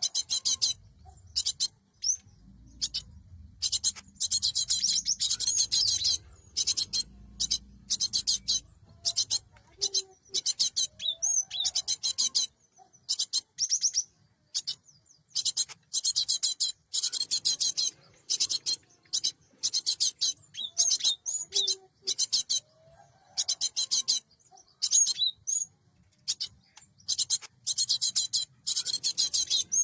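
Cinereous tit (gelatik batu) giving high, rapid chattering calls in short bursts, repeated many times with brief gaps.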